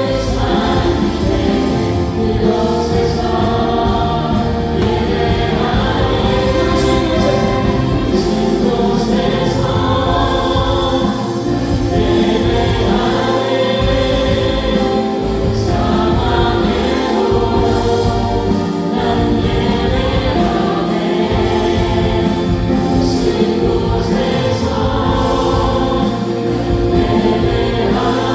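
A worship band with several voices singing together over keyboards, bass and drums, playing a Korean praise song.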